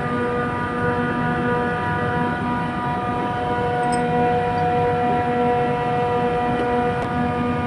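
Nitrogen gas flowing from a cylinder regulator into the chiller's high side: a steady, fixed-pitch whistling hiss with strong overtones, switched on just before and holding level throughout.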